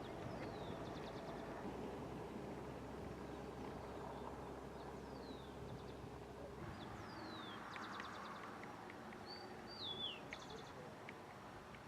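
Birds calling over a faint steady background of outdoor noise. Several short high whistles slur downward, each followed by a quick run of short clipped notes. The loudest call comes about ten seconds in: a held note that then drops.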